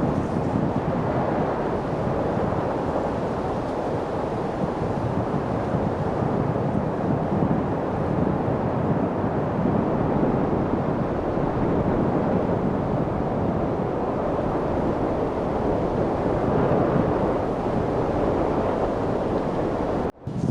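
Steady wind noise: an even, low rushing with no gusts or distinct events, broken by a brief sharp dropout near the end.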